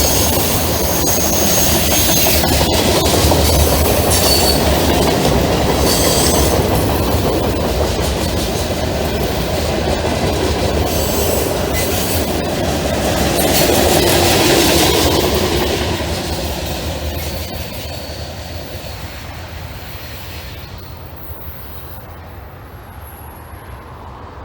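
Norfolk Southern freight train passing at speed on a temporary shoo-fly curve, wheels clattering over the rail joints with thin high wheel squeals on the curve in the first few seconds. The noise fades away over the last several seconds as the train moves off.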